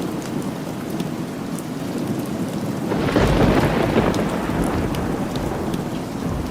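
Steady rain falling, with a low roll of thunder swelling up about three seconds in and fading over the next couple of seconds.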